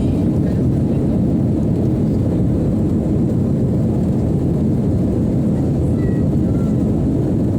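Steady low rumble of a jet airliner, even in level throughout.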